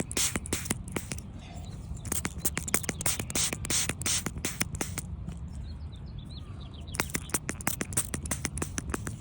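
Hand squirt bottle being squeezed over and over in quick runs of sharp clicks and spurts, about five a second, with a short pause before a last run; it is wetting a freshly dug silver coin and barely spraying. A low rumble runs underneath.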